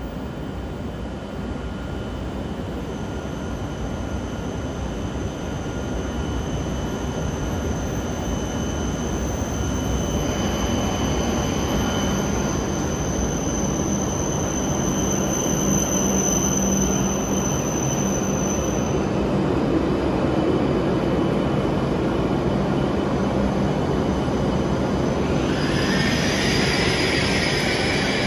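E7/W7-series Shinkansen train pulling into the platform and slowing to a stop. Its steady running noise grows louder as the cars draw alongside, with a thin high whine through the middle. A cluster of higher squealing tones comes in near the end as it brakes.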